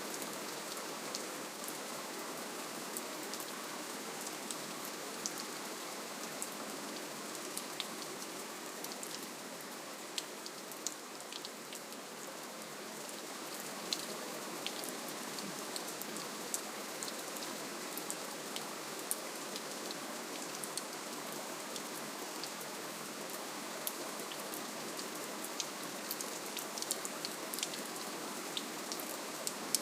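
Steady rainfall: an even hiss of rain with many individual drops ticking sharply on a surface.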